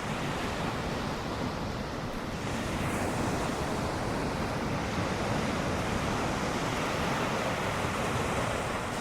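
Ocean surf: waves breaking and washing ashore in a steady rushing noise.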